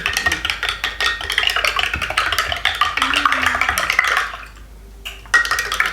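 A spoon stirring chocolate drink powder into a glass of cold water, with fast continuous clinking and scraping. It pauses for about a second near the end, then starts again.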